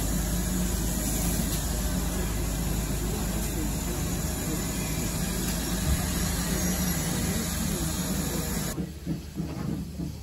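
Heritage railway carriage rolling slowly along a station platform, heard from an open window: a steady rumble and hiss with a low hum. Near the end the sound cuts abruptly to a quieter trackside scene with a quick run of short hissing sounds.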